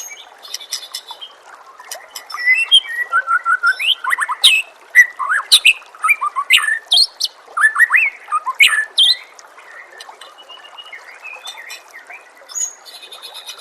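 White-rumped shama singing a varied, rapid song of whistles, slurred notes and chattering phrases over steadily trickling water. The song is loudest in the middle and softens to scattered calls after about nine seconds.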